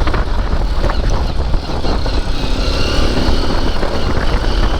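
XR dirt bike's single-cylinder engine running under way on a rough off-road track, with a heavy low rumble throughout.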